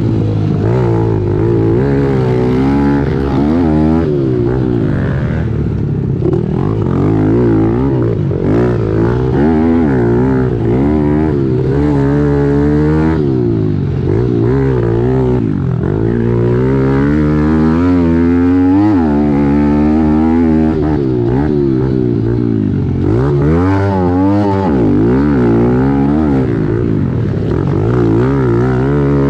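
A 2017 Kawasaki KLX110L's 110 cc single-cylinder four-stroke engine, heard from on board, revving up and falling off again and again as the pit bike is raced around a motocross track.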